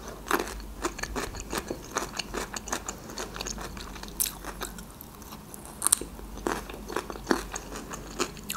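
A person chewing food close to the microphone: wet mouth clicks, smacks and crunchy bites, several a second, irregular.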